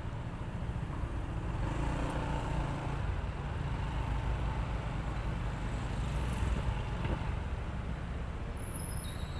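Honda ADV160 scooter's single-cylinder engine running under way, with wind and road noise rumbling steadily. The road sound grows louder from about two seconds in and eases off after about seven seconds, as of traffic nearby.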